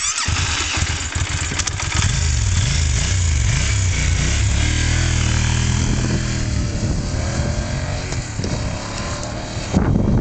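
Yamaha TDM900's parallel-twin engine running as the motorcycle rides, its pitch rising and falling with the throttle and then climbing in several steps through the gears.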